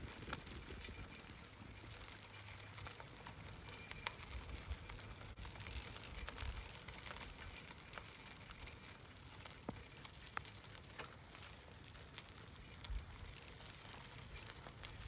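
Bicycle tyres rolling on a crushed-stone rail trail: a faint, steady crackling patter of small ticks from the grit under the wheels, with a low rumble beneath.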